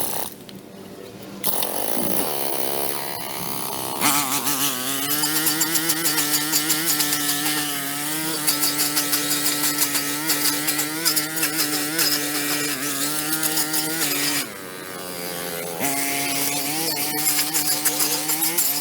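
Small gas engine of a handheld power tool running at high speed under load, with a rough, rattling cutting hiss. It throttles up about four seconds in, drops back for a moment about three-quarters of the way through, then picks up again.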